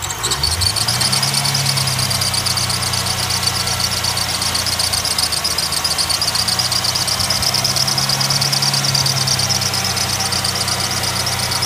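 A motor starts up, its low hum rising in pitch over the first second, then runs steadily with a fluttering high-pitched hiss over the hum.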